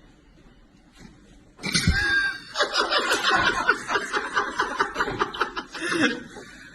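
A sudden loud sound about a second and a half in, then a person laughing hard in rapid, repeated bursts that die down near the end.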